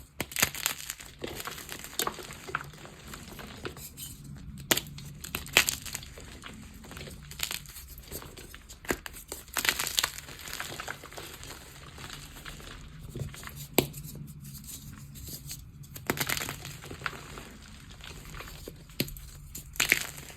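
Gym chalk being crushed and crumbled by hand, giving irregular crunchy, powdery crackles, with louder clusters of crunches at intervals.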